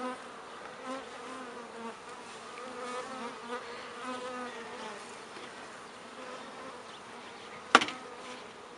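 Honeybees buzzing close around, a hum whose pitch wavers as they fly past; the bees are agitated by the hive being opened. One sharp click near the end.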